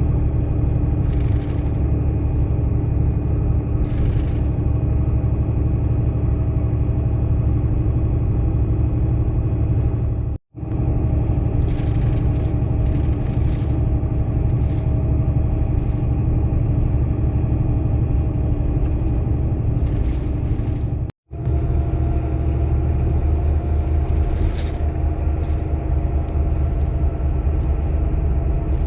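Steady low rumble of a moving vehicle, with a constant hum and occasional brief rattles. The sound cuts out abruptly for an instant twice, about a third and two thirds of the way through.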